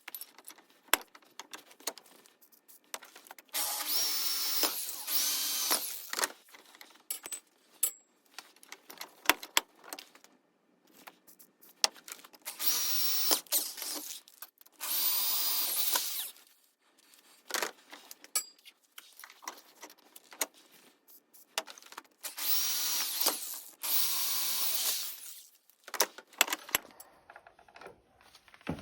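Power drill running in short runs of one to two seconds each, six runs in three close pairs, with clicks and knocks from handling the tool and workpiece in between.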